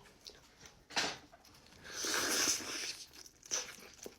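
Close-up eating of a bone-in chicken wing: a short crunch about a second in, then a longer tearing, crunching bite in the middle as the meat comes off the bone, with a few small wet clicks after.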